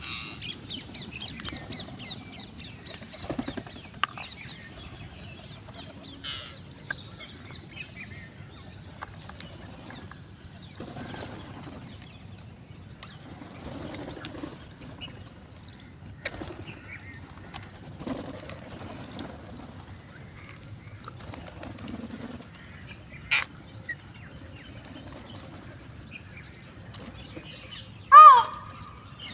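Parrots chirping in short high calls, with rustling and a few sharp clicks throughout, and one loud, harsh call near the end.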